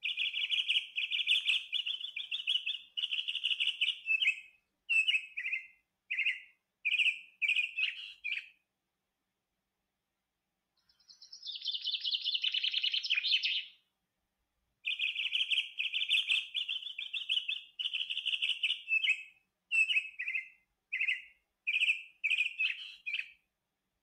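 Bird chirping in rapid trills: a long trill, then short bursts, a rising sweep partway through, and the same long trill with short bursts again, separated by dead silence.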